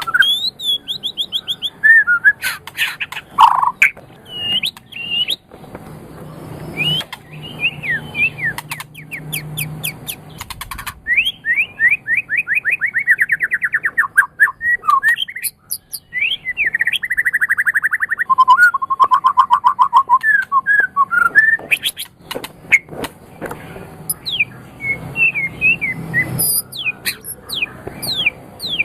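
White-rumped shama (murai batu) singing a loud, varied song: fast trills of repeated notes, sweeping whistled phrases and sharp clicks.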